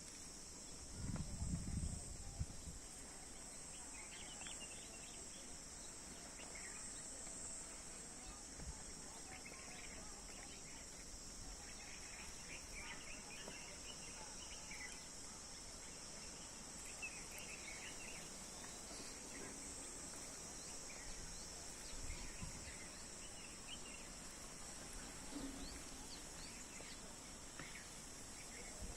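Steady, high-pitched drone of insects, with faint scattered bird chirps over it. Near the start there is a brief low rumble of wind or handling on the microphone.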